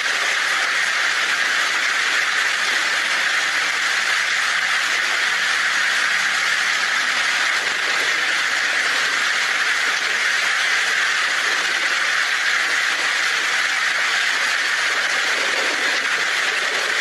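Heavy rain on a tin roof, a dense, even hiss that holds steady throughout.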